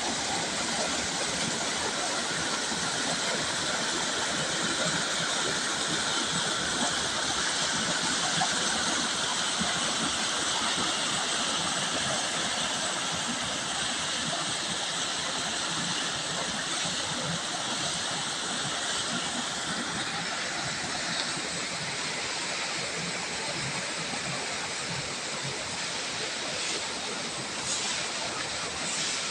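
Steady rushing sound of running water. A faint, steady high-pitched band runs under it and stops about two-thirds of the way through.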